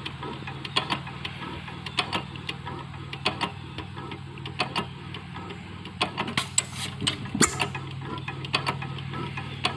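6 hp Stover hit-and-miss engine running, with sharp mechanical clicks repeating about once or twice a second over a steady low hum. Two louder, noisier bursts come about six and a half and seven and a half seconds in.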